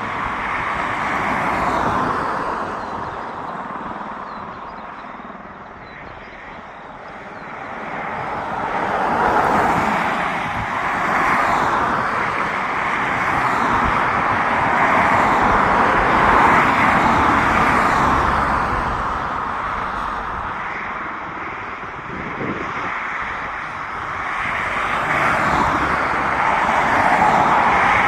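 AH-64 Apache attack helicopter taking off, its turbines and rotor making a steady rushing noise that swells and fades, dipping about six seconds in and growing louder through the second half.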